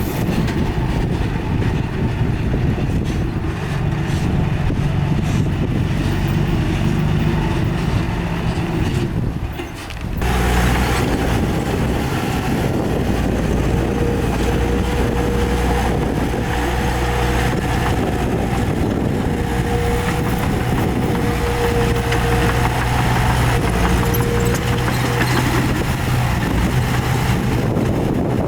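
Heavy diesel engine of earthmoving machinery running steadily under load, with a brief drop in level about ten seconds in. A thin whine runs over the engine through the middle part.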